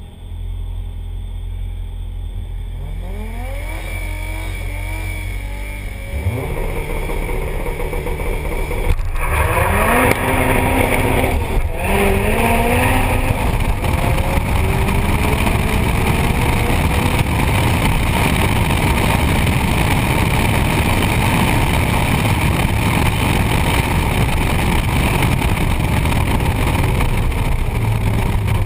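Turbocharged Ford Laser TX3 drag car heard from on board: the engine runs low on the start line, revs rise and it launches about six seconds in, then pulls hard with rising pitch through the gears, with a brief gap at each shift around nine and twelve seconds. After that comes a steady loud rush of engine and wind noise at speed.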